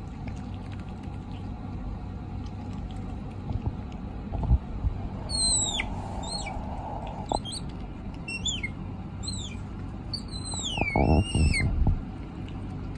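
A small animal giving a run of high-pitched squeaks, each sliding quickly downward, starting about five seconds in. A few soft low thumps come before and among them.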